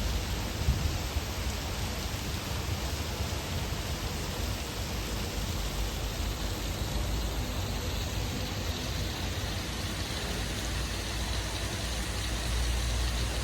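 Heavy rain falling in a steady downpour, a dense even hiss of rain on surfaces.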